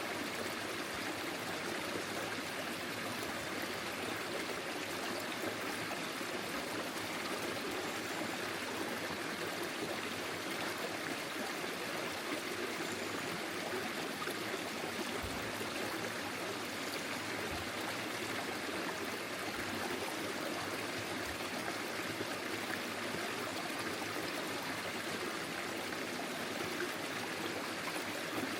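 Forest stream flowing over stones, a steady rush of water with trickling and gurgling.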